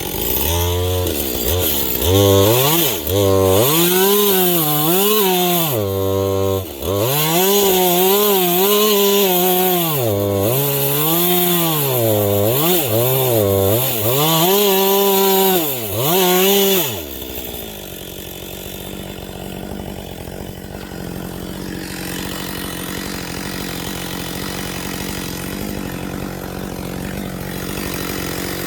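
Husqvarna 562 XP two-stroke chainsaw revving and bogging down again and again while cutting with a dull chain, then dropping to idle about two-thirds of the way through. The dull chain is what the owner says this sound tells you to stop and change.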